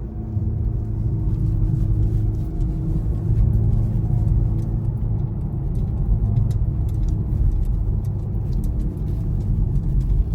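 BMW i4 M50 electric car driving: a steady low road and tyre rumble with a faint hum on top, getting louder just after the start.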